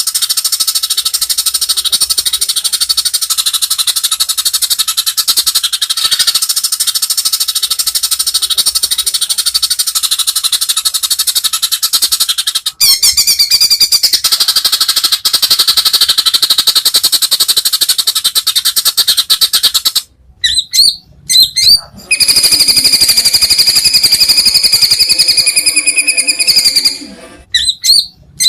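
White-rumped shama (murai batu) singing loudly: a long, very fast rattling trill for about the first twelve seconds, more rattling after a short break, then after a gap short bursts and several seconds of held, high whistled notes.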